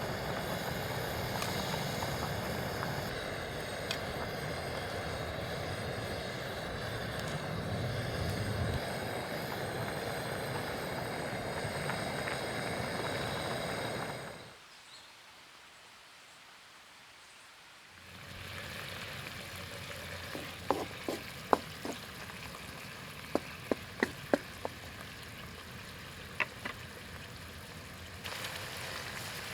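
A steady rushing noise, then a short drop to quiet, then oil sizzling in a frying pan with a run of sharp clinks from a utensil against the pan.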